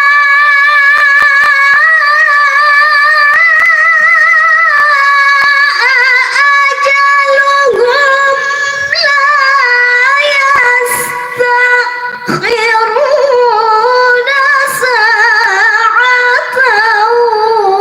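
A woman chanting Qur'an verses in the melodic tilawah style: long held notes decorated with wavering ornaments, the melody stepping lower near the end.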